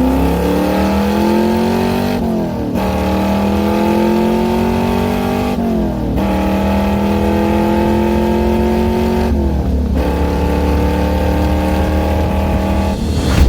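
Car engine accelerating hard through the gears: the engine note climbs steadily, dips briefly at each of three upshifts, then pulls again.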